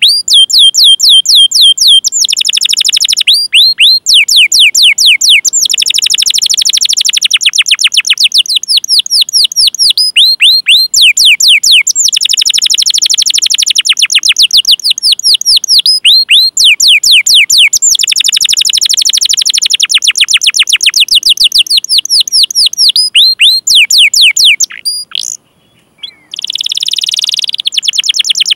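Canary singing: long fast runs of repeated high chirps that sweep down in pitch, the 'cuit cuit' calls, alternating with rolling trills. The song breaks off briefly about 25 seconds in, then resumes.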